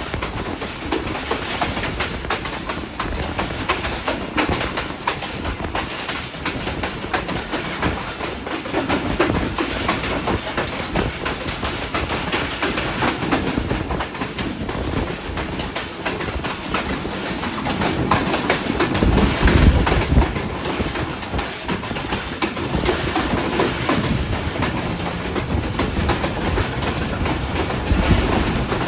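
Passenger train running along the track, wheels clattering over the rails with a steady noisy rumble that swells heavier and louder about two-thirds of the way through.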